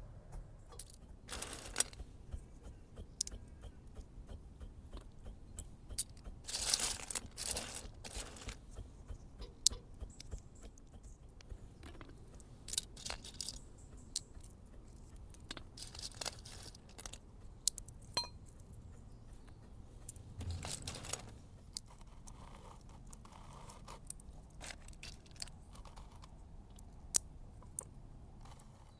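Handling noises, as in cooking preparation: scattered sharp clicks and scrapes with a few short crunching or rustling bursts, the longest about 7 s in and again about 21 s in.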